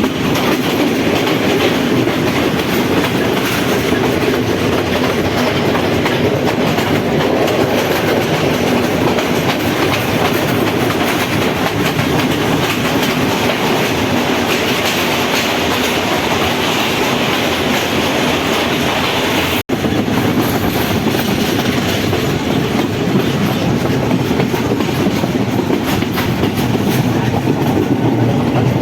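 Passenger train running along the track: a steady rumble with wheels clattering over the rails. The sound breaks off for an instant about two-thirds of the way through, then carries on as before.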